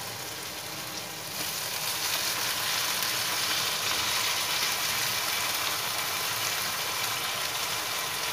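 Tomato and onion masala sizzling in oil in a wok. About a second in, the sizzle gets louder and brighter as the soaked mash (urad) dal is poured in from a bowl, and it keeps sizzling steadily after that.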